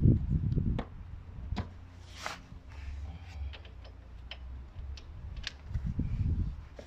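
Irregular sharp metallic clicks and taps with a few low thuds near the start and near the end: hand tools and parts being handled during car repair work.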